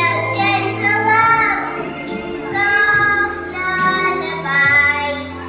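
A child singing a melody in long held notes over instrumental backing music.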